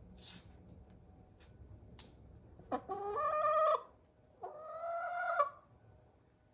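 A chicken giving two drawn-out calls, each about a second long, with a short gap between them. A brief hiss and a small click come before the calls.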